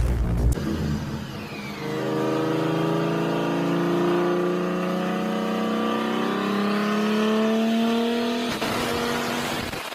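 Toyota Supra MK4's inline-six engine and exhaust accelerating hard, its pitch climbing steadily for about six seconds, with a brief break near the end before it carries on.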